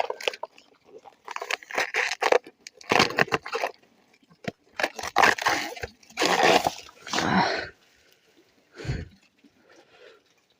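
Outer skin of a freshly cut banana stem being peeled off: a series of short, fibrous tearing sounds, with a dull thump about nine seconds in.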